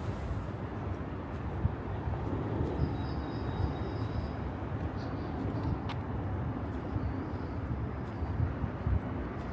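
City street ambience: a steady low rumble of traffic and urban background noise, with a faint high whine for about a second around three seconds in.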